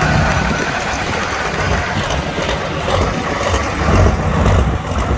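A heavy tractor-pulling machine's engine running, loud and low-pitched, swelling in loudness a couple of times near the end.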